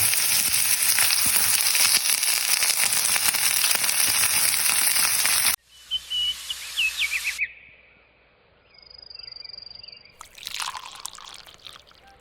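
Ribeye steak sizzling on a hot iron griddle: a loud, steady crackling hiss that cuts off abruptly about five and a half seconds in. A few short whistled chirps follow, then quiet and a brief rustle.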